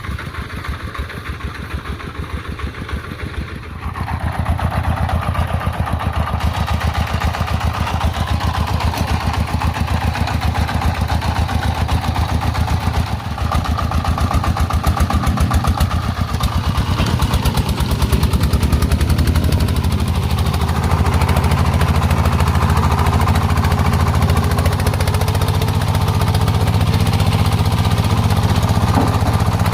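Single-cylinder diesel engine of a loaded công nông farm truck chugging steadily, getting louder about four seconds in as it works harder, and rising again in the second half.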